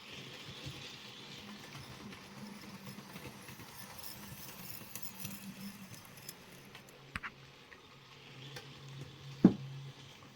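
OO gauge model locomotive running on track while hauling four coaches: its small electric motor hums steadily under light clicking of wheels on rail joints. A sharp knock sounds near the end.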